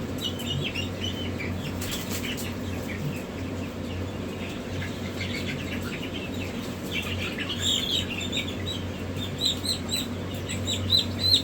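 Many newly hatched chicks peeping, short downward-sliding chirps that come thicker and louder near the end, over a steady low hum.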